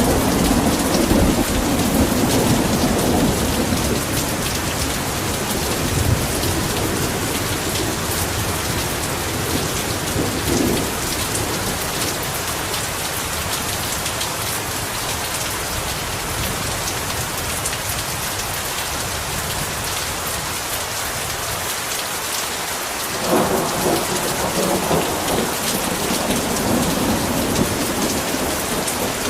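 Heavy rain pouring steadily, with rolling thunder. A rumble fades over the first few seconds, and another builds a few seconds before the end.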